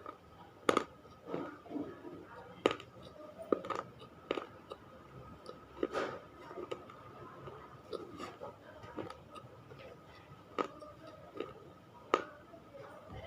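Close-up crunching of hard, dry baked-clay pieces being bitten and chewed: sharp single crunches at uneven intervals, with softer grinding in between.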